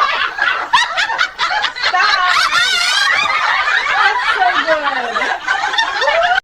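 People laughing hard, in quick breathy bursts and high-pitched giggles that overlap.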